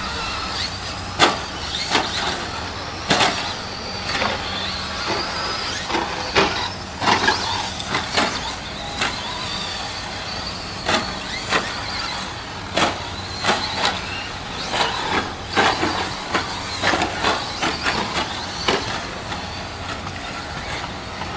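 Radio-controlled 2WD short-course trucks racing: the high whine of their motors rising and falling, broken by frequent sharp clacks and knocks as the trucks bounce, land and hit things on the track.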